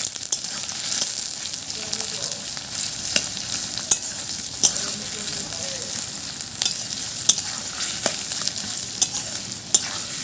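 Chopped onion frying in hot mustard oil in a kadai: a steady sizzle, with sharp clicks as a spatula stirs and knocks against the pan every second or so.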